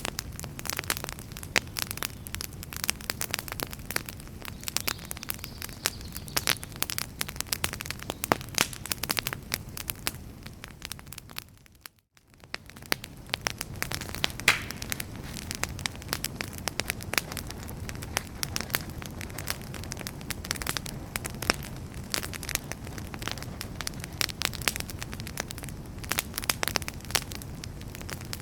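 Wood fire in a fireplace crackling, with many sharp pops and snaps over the low rush of the flames. About twelve seconds in it fades almost to nothing for a moment, then swells back.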